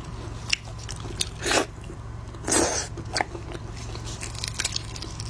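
Close-miked eating of shrimp: a run of crisp clicks and crunches of biting and chewing, with two louder, longer mouth sounds about a second and a half and two and a half seconds in.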